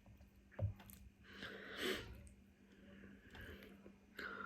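Faint chewing and mouth sounds of someone eating, with a short soft thud just over half a second in, over a low steady hum.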